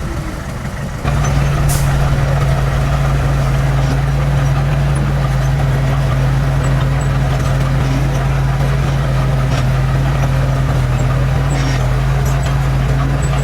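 Heavy diesel engine of earthmoving equipment running, stepping up to a louder, steady higher speed about a second in and holding there, with a few light clicks on top.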